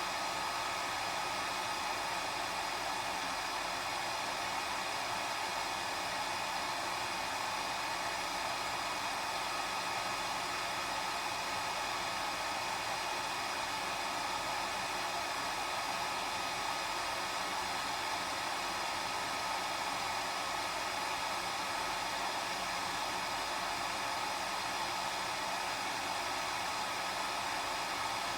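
Hair dryer running steadily: an even rushing blow with a faint high motor whine, unchanging throughout.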